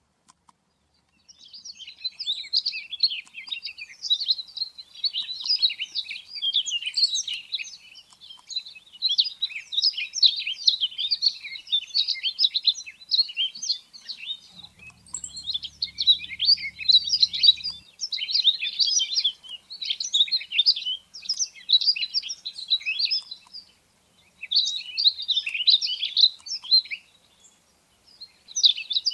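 Rustic bunting song: quick, twittering warbled phrases repeated one after another with short pauses, from a field-guide recording dubbed over the footage.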